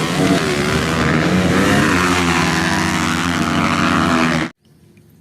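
Motocross motorcycle engine running and revving, its pitch wandering up and down, then cutting off abruptly about four and a half seconds in.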